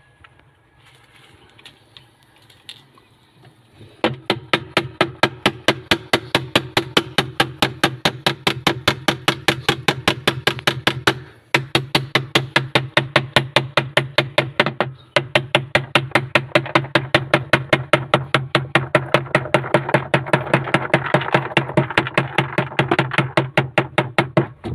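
A motor-driven mechanism starting about four seconds in and running with a steady hum and a rapid, even clatter of several clicks a second, stopping briefly twice before running on.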